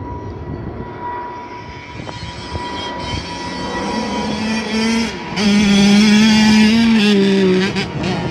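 Two-stroke motocross dirt bike engine revving hard and getting louder as it comes close, with a brief drop in the engine note just after five seconds before it comes back loudest, then easing off near the end.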